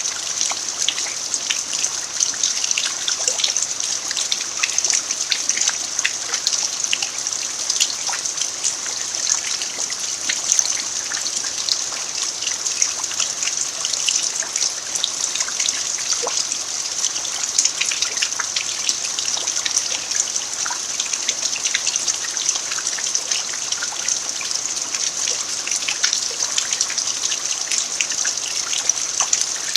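Steady rain falling on a dirt farmyard: an even hiss dotted with many small drop impacts.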